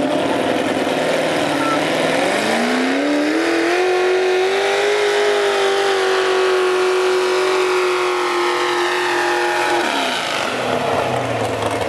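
Pickup truck engine revving hard under load while pulling the weight sled. The revs climb about two seconds in, hold high and steady for about six seconds, then drop off quickly near the end.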